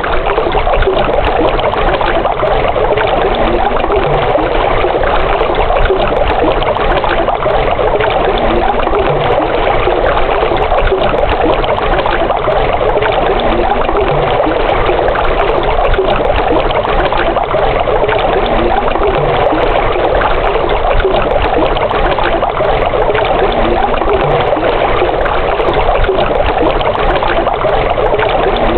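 Running water trickling and flowing steadily, without a break.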